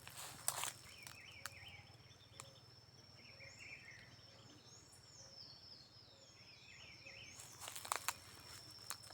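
Faint outdoor ambience: small birds chirping and twittering on and off over a steady thin high tone. A few crunching steps on dry ground come at the start and again near the end.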